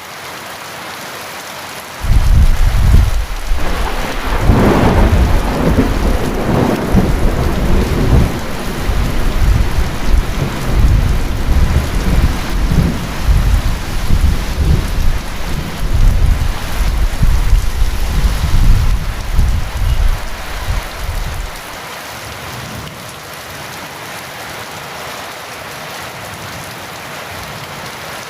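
Steady heavy rain. About two seconds in, a thunderclap breaks out and rolls on, loud and low, for nearly twenty seconds before it stops, leaving the rain.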